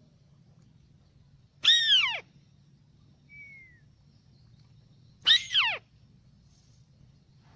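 White-browed crake, a decoy bird, calling: two loud calls about three and a half seconds apart, each falling in pitch, with a faint short whistle between them.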